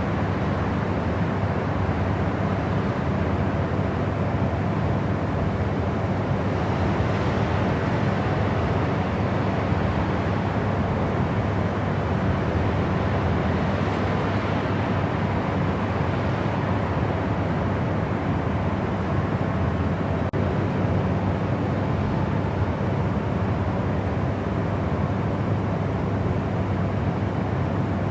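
Steady white noise played as a sleep sound: a constant, even rush with no rhythm or breaks, heavier in the low and middle range than in the treble.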